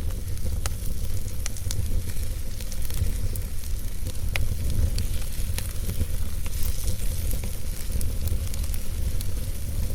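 Wood fire burning in a fireplace: a steady low rumble of the flames with frequent sharp crackles and pops scattered throughout, and a hiss from the burning wood.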